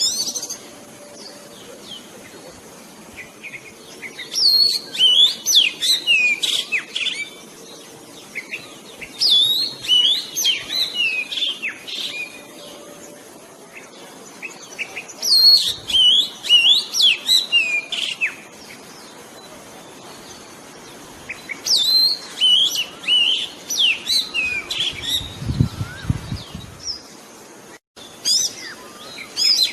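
Oriental magpie-robin singing: bursts of varied, sharply rising and falling whistled phrases, each lasting about three seconds, repeated after short pauses. This is the song played as a lure to trap the bird. A brief low rumble comes in near the end.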